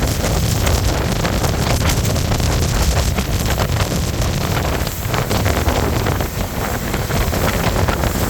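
Speedboat running at speed: wind buffeting the microphone over a steady rush of water and motor noise.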